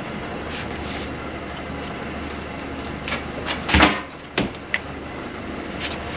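A boat's motor runs with a steady low hum. A handful of knocks and thumps come about three to four and a half seconds in, the loudest near four seconds, as gear or catch is handled on the deck.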